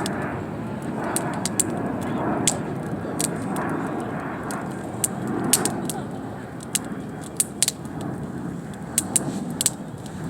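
Wood campfire crackling: irregular sharp pops and snaps, several a second at times, over a steady rushing noise.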